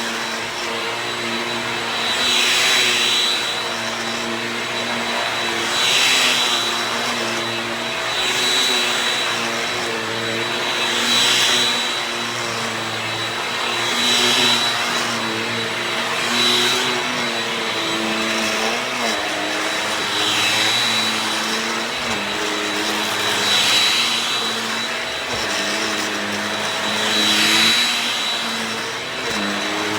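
Shark Rocket stick vacuum running continuously, a steady motor hum and high whine with a swell of rushing air every three seconds or so. The motor pitch sags briefly twice in the second half.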